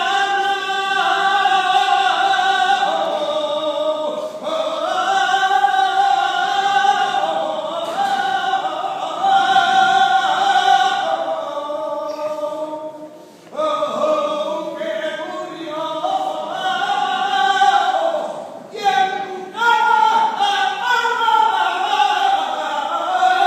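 A saeta, the Andalusian flamenco devotional song, sung unaccompanied in long ornamented phrases with a wavering, melismatic pitch. Short breaks for breath come between the phrases.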